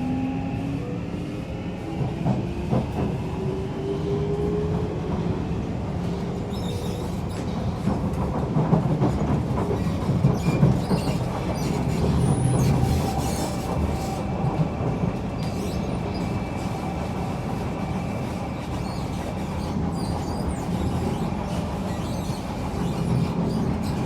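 Kawasaki C151 metro train heard from inside the car: the traction motor whine rises in pitch over the first few seconds as the train accelerates, then gives way to steady wheel-on-rail running rumble. Clicks over the track and brief wheel squeal come in along the way.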